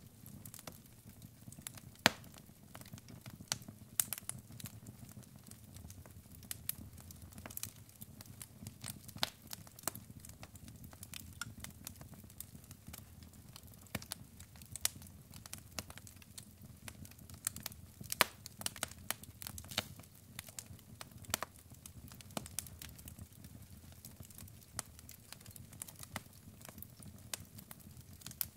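Wood fire burning in a fireplace: logs crackling and popping at irregular intervals over a low, steady rumble of the flames, with one sharp pop about two seconds in.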